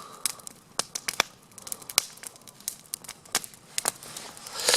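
Wood campfire crackling, with irregular sharp pops several times a second and a brief rustle near the end.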